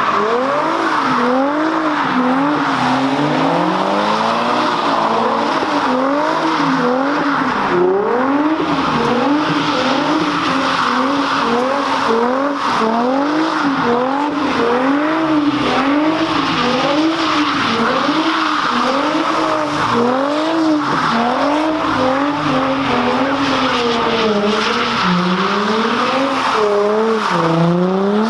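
A car doing donuts at a street takeover: its engine revs rise and fall about once a second under a steady squeal of spinning, sliding tyres.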